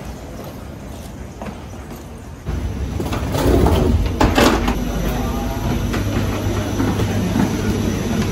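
Quiet background noise, then about two and a half seconds in an abrupt switch to the steady hum and rush of an Airbus A350-900's cabin ventilation, with a few brief clatters and knocks.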